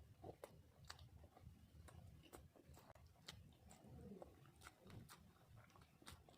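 Faint close-up eating sounds: chewing and irregular wet mouth clicks, about two a second, over a low steady hum.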